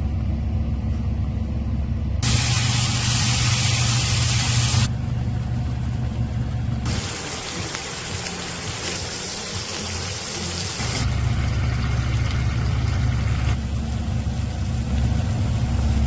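Cooking noises from a stove, spliced from several shots: a steady low hum runs under stretches of loud hissing, like boiling or frying noodles, that start and stop abruptly.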